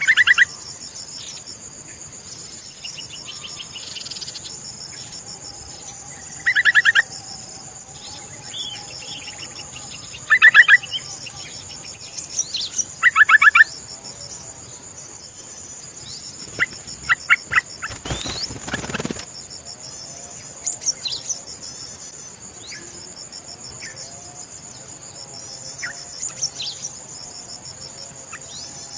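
Birds calling over a steady high-pitched insect drone. The loudest calls come in short bursts of fast repeated notes, four times in the first half, with scattered single chirps after. About two-thirds of the way through there is a brief rustling knock.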